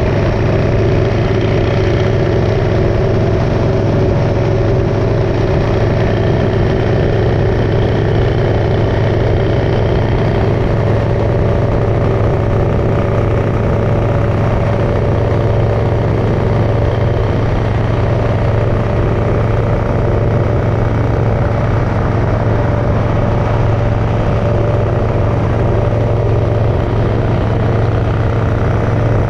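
Motorcycle engine running at a steady speed, its drone holding an even pitch and level, as heard while riding.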